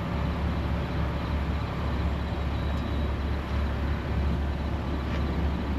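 Straight-piped Mercedes-AMG M156 naturally aspirated V8 running steadily at low revs, heard from inside the cabin as an even, deep drone.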